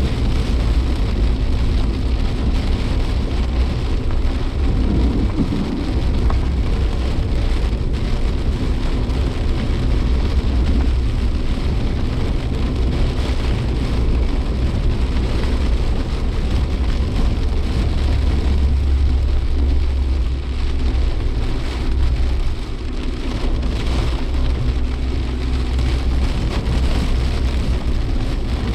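Heavy typhoon rain beating on a Suzuki Jimny Sierra as it drives, heard from inside the cabin, over a steady low rumble of engine and road noise that swells and eases.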